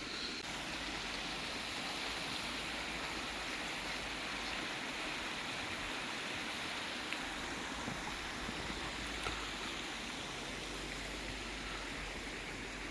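Steady rushing of flowing water, with a few faint ticks about seven to nine seconds in.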